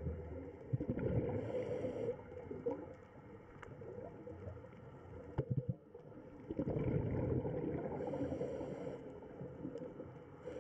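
Underwater sound: a steady rush and gurgle of water, with a few short clicks and two brief high hisses.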